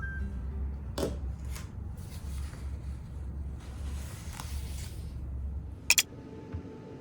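Small handling sounds: soft rustling and a few light clicks over a low steady hum, with two sharp clicks in quick succession about six seconds in, after which the hum stops.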